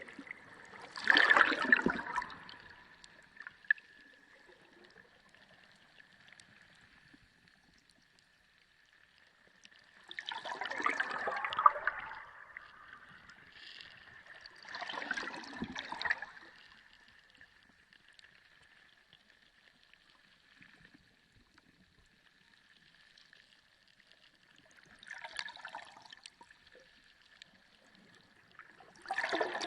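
Sea water gurgling and sloshing, recorded underwater, in five separate surges of a second or two each with quieter spells between. A faint steady high whine runs underneath.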